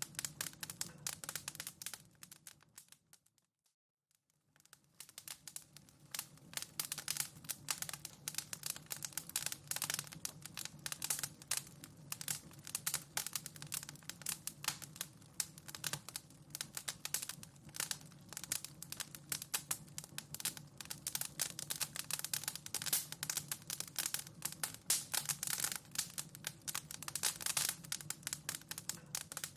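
Wood fire crackling in a fireplace: a dense, irregular run of sharp snaps and pops over a steady low rumble. The sound briefly fades out and back in about four seconds in.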